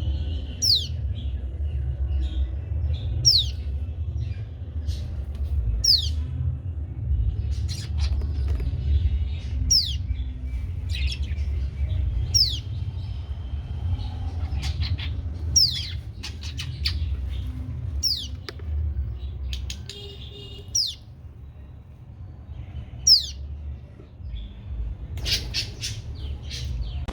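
A young bird giving repeated sharp calls that sweep downward in pitch, about one every two to three seconds, as it calls for its parents. A steady low rumble runs underneath.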